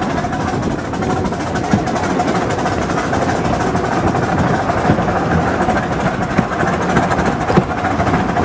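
Small rail ride car rolling along a track: a steady rumble of wheels on the rails with a constant hum and scattered light knocks.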